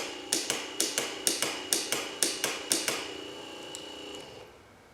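1960s Chevrolet C10 two-speed wiper motor running on the bench with a steady whine and an even clicking about four times a second. The clicking stops about three seconds in, and the motor runs down and stops about a second later.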